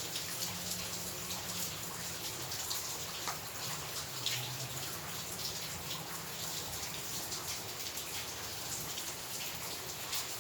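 Heavy rain falling steadily, with many irregular drips and splats of drops striking nearby surfaces.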